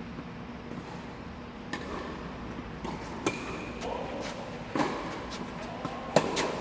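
Tennis rally: sharp pops of the ball struck by rackets about every second and a half, four in all, with fainter ball bounces and footstep clicks between them.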